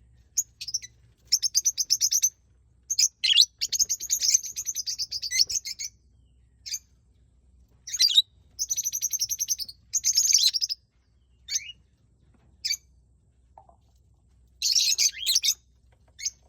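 Pet lovebirds and cockatiels chattering and calling: several bursts of fast, shrill chatter, each one to three seconds long, with single sharp chirps in between.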